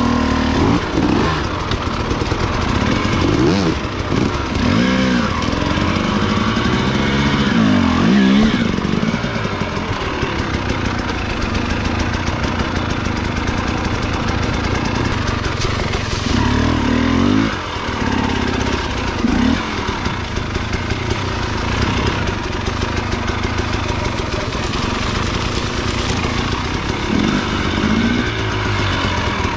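300 cc two-stroke enduro motorcycle engine being ridden hard, its revs rising and falling again and again. The revving is busiest in the first few seconds, again past the halfway point, and near the end.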